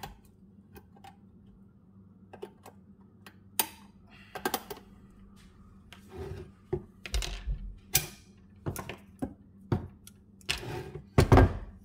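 Irregular clicks and knocks of a riding mower's metal deck-height lift lever and its linkage being shifted and handled, with the loudest knock near the end.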